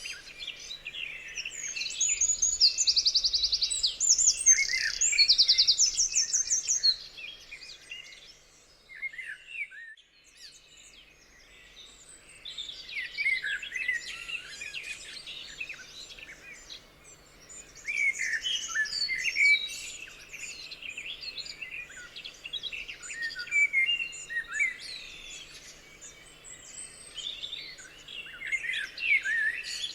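Several songbirds singing and calling at once, many overlapping chirps and whistles. It is loudest in the first few seconds, where fast trills come through, then eases into a short lull near ten seconds before the chirping picks up again.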